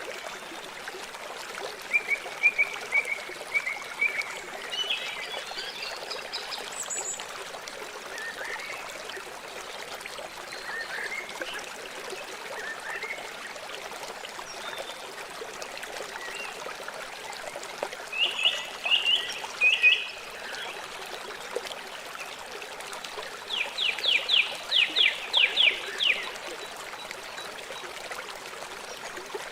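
River water running with a steady rush, with birds calling over it now and then and a quick run of about eight notes near the end.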